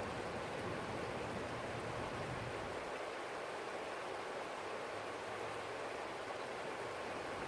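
Small stream flowing steadily over rocks, a continuous rushing of water. A low rumble under it drops away about three seconds in and partly returns near the end.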